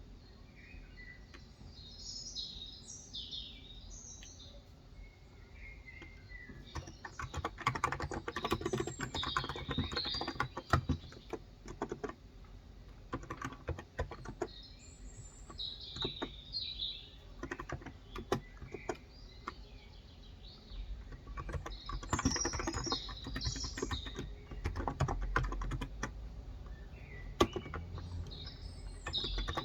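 Typing on a Cox Endeavor electro-capacitive tenkeyless keyboard with 35 g switches, in runs of quick keystrokes with pauses between them. Birds chirp now and then throughout.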